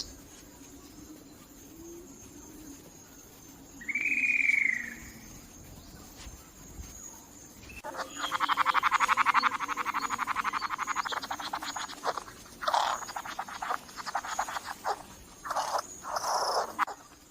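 Flame bowerbird calling. A single short arched note comes about four seconds in. From about halfway there is a long, harsh, buzzy rattle, followed by a string of short rasping calls.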